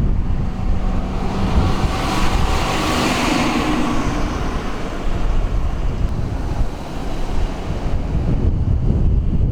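Wind buffeting the microphone with a loud, steady rumble. An engine hum swells and fades about two to four seconds in.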